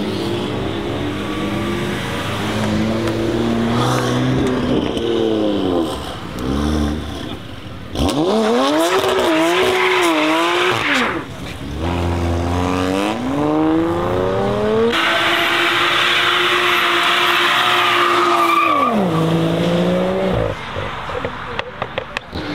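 Several modified performance cars accelerating away one after another, each engine note climbing and dropping repeatedly as they rev.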